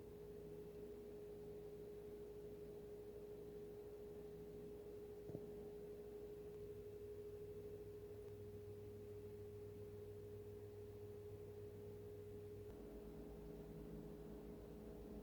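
Faint steady hum carrying one clear held tone, with a lower hum beneath it. There is a single soft click about five seconds in.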